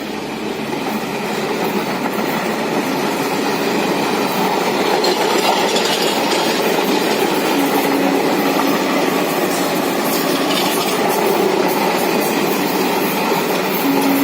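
Train running on the track, a steady, loud rumble of wheels on rail, with a short steady tone about eight seconds in.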